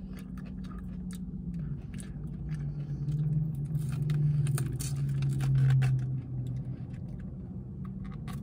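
A car engine running close by, its low note dropping and growing louder from about two seconds in, then easing off around six seconds. Over it, light crackles and taps of a cardboard burger box being handled.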